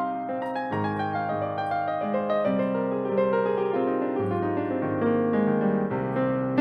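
Piano playing a passage of Brazilian instrumental music, many notes struck in quick succession over sustained chords.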